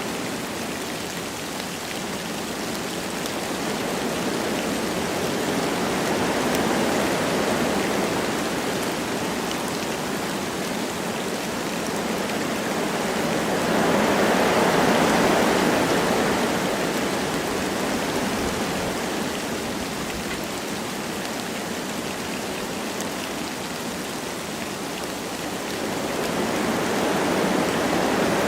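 Wind blowing through forest trees with light rain falling, a steady rushing hiss that rises and falls in slow gusts, the strongest gust about halfway through.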